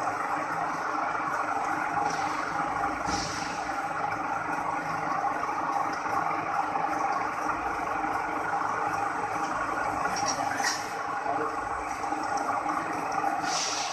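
Chicken breast slicing machine running with a steady mechanical hum, broken by a few short hisses.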